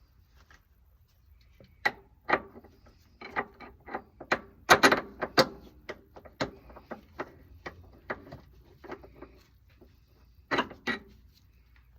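Irregular knocks and clanks of hand tools and metal parts being handled, about two dozen in all, loudest around five seconds in and again as a quick double knock near the end.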